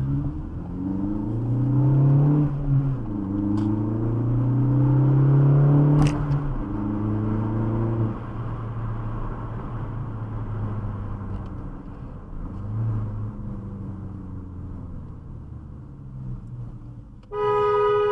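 Car engine running through gear changes, its pitch rising and falling as the car accelerates for the first several seconds, then settling to a quieter steady drone. A single sharp click about six seconds in, and a short car horn blast near the end.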